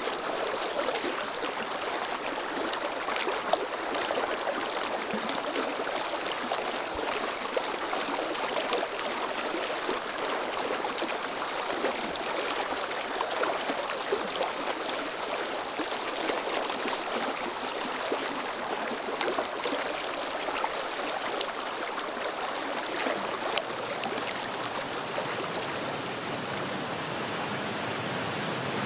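Mountain stream rushing steadily, an even watery hiss.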